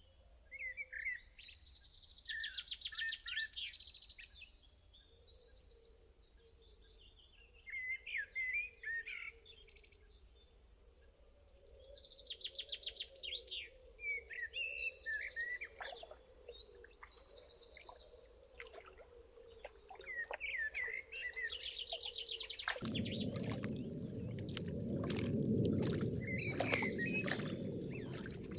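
Songbirds singing in short repeated phrases. Near the end, the steady rush of running water starts abruptly, with birdsong continuing over it.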